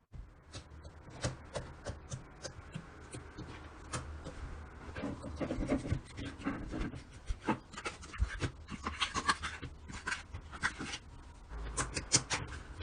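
Slime being squeezed, stretched and poked by hand, giving a dense, irregular run of sticky pops and crackling clicks.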